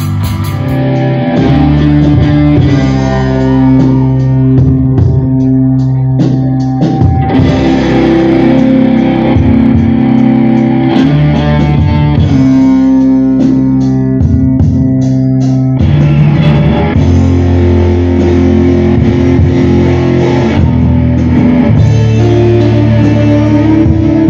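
Live rock band playing an instrumental passage, loud, with guitars, bass guitar and drums.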